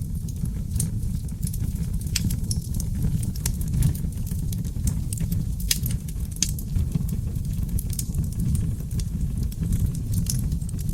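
Seasoned oak logs burning in a fireplace, crackling with frequent irregular sharp pops over a steady low rumble of the flames.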